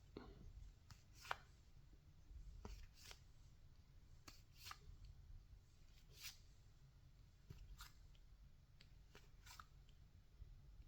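Faint, short clicks of baseball trading cards being slid and flipped one at a time, roughly one a second at an uneven pace.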